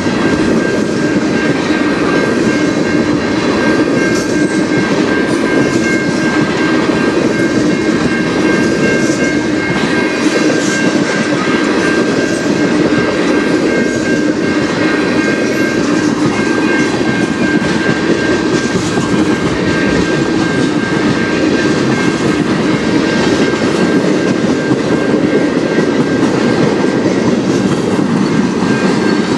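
Manifest freight train of tank cars rolling steadily past, a continuous rumble of steel wheels on the rails. A steady high tone runs under it, the crossing's warning bell ringing while the signals are active.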